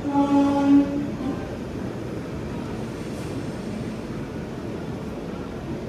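A train horn sounds once, a steady note held for about a second, over the steady rumble of a passenger train running on the track.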